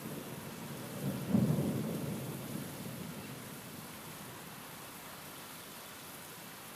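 A clap of thunder about a second in, rumbling low and fading away over the next couple of seconds, over a steady hiss of rain.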